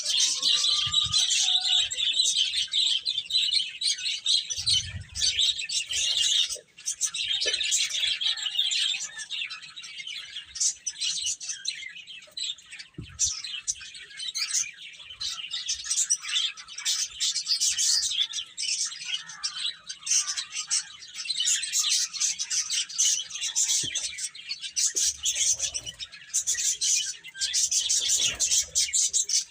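A brood of baby chicks peeping continuously, many high-pitched calls overlapping, with a few soft knocks.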